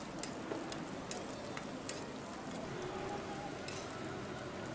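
Hotteok frying in oil on a flat griddle: a steady sizzle with scattered small pops.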